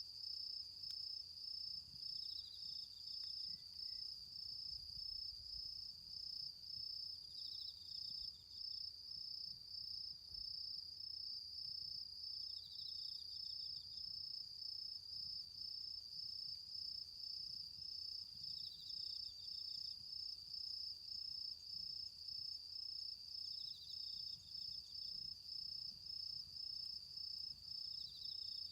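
Autumn insects singing: one keeps up a continuous high, rapidly pulsing trill, while a second gives a short, slightly lower trill about every five seconds.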